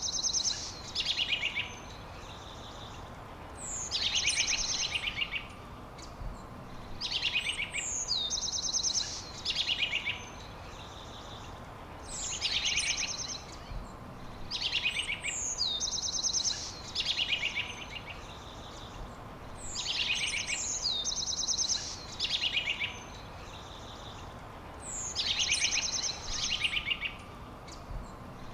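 A songbird repeating the same short song about every four seconds: a high whistle sliding downward, then quick buzzy trills, over a steady background hiss.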